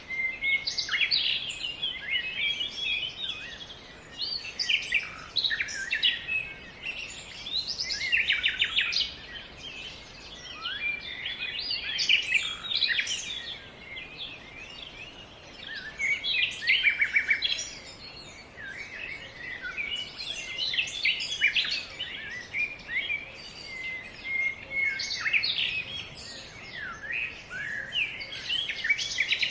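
Songbirds singing: a dense, continuous run of short chirps, trills and quick rising and falling notes.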